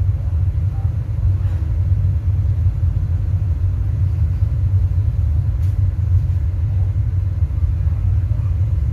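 Deep, steady bass rumble from a large sound system's subwoofers during a sound check, nearly all its energy in the lowest notes with little above.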